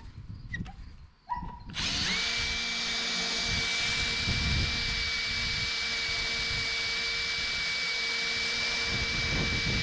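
Electric buffer with an orange foam pad spinning up about two seconds in, then running steadily with a level whine while polishing a headlight lens with 205 polish.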